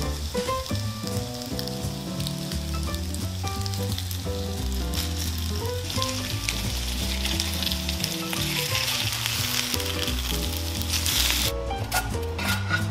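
Rice and vegetable patties sizzling as they fry on a cast-iron grill pan, a steady frying hiss that cuts off near the end, with background music underneath.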